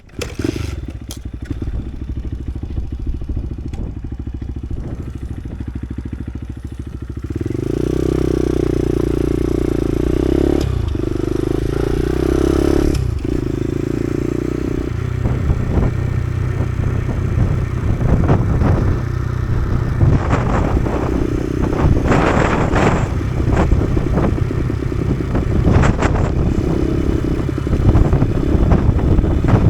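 Kawasaki KSR110's small single-cylinder four-stroke engine running steadily, then pulling away with the note rising about seven seconds in. Two brief breaks in the engine sound follow as it shifts gear, and after that it runs on under way with rougher, noisier sound.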